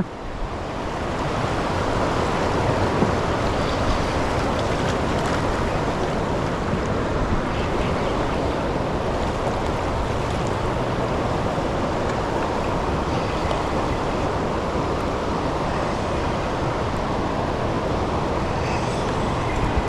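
Steady rushing of fast-flowing river water, rising over the first second or two and then holding level, with some wind noise on the microphone.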